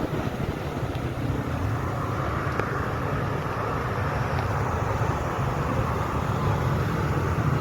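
Steady low engine rumble with a hiss above it, holding level without rising or falling.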